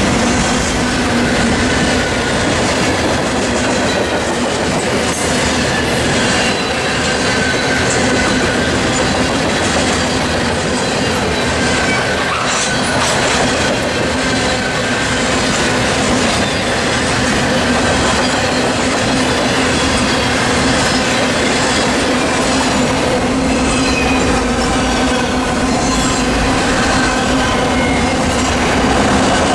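Freight train cars rolling past: a steady rumble of steel wheels on the rails with clickety-clack over the rail joints and faint wheel squeal.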